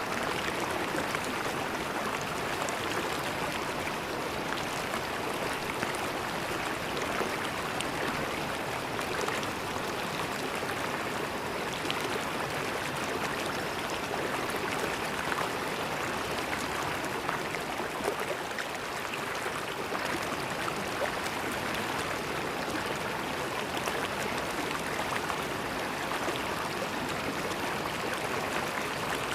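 River water flowing over stones: a steady rushing and gurgling without a break.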